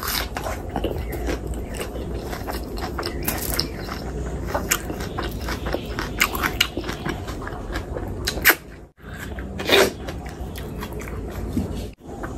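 Close-miked chewing and wet lip smacks of a mouthful of hand-eaten rice and curry, with many quick clicks of the mouth and fingers. The sound breaks off briefly twice, about nine and twelve seconds in.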